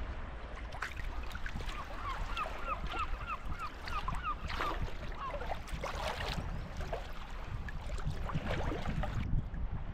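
Birds calling: a quick run of about ten alike short calls, some four a second, then scattered single calls, over a steady low rush.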